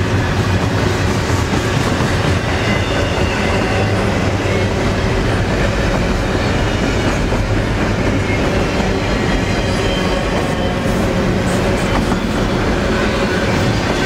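Double-stack intermodal freight cars rolling past, a steady, loud rumble of steel wheels on rail.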